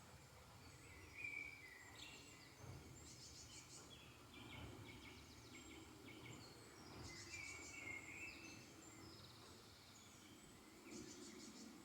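Faint woodland morning chorus of several songbirds: short high trills and chirps recurring every few seconds over a low, steady background noise.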